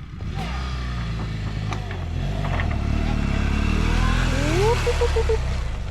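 BMW F 800 GS parallel-twin motorcycle engine running and pulling away, its revs climbing gradually. A short rising tone is heard near the end.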